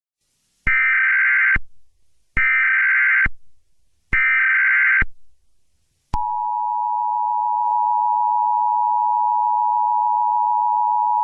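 Emergency Alert System SAME header: three bursts of screeching digital tones, each just under a second long. About six seconds in, the steady two-tone EAS attention signal starts and holds. Together these mark the start of a new emergency alert broadcast.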